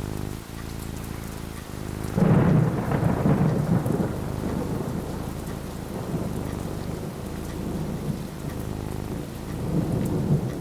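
Steady rain falling, with a thunderclap about two seconds in that rumbles low and fades over a couple of seconds; a softer rumble of thunder swells near the end.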